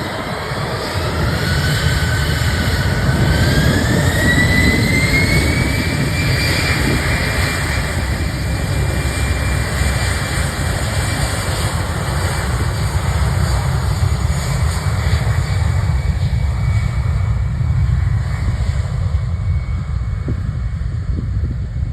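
Airbus A320 CFM56 turbofan engines running up: a jet whine rises in pitch over the first several seconds, then holds steady over a heavy rumble, the sound of thrust building for takeoff. The higher whine thins out near the end.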